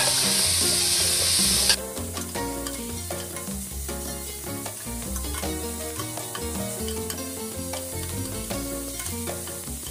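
Onions and minced garlic sizzling as they are stirred while sautéing in a stainless steel pot, with background music under it. The sizzling cuts off abruptly about two seconds in, and only the background music remains.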